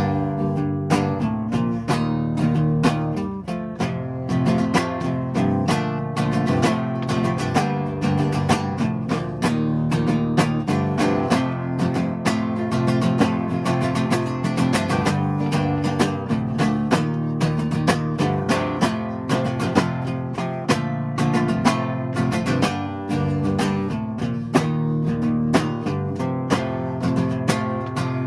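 Acoustic guitar strummed and picked in a steady rhythm, starting abruptly, with no singing: the instrumental lead-in before the verse.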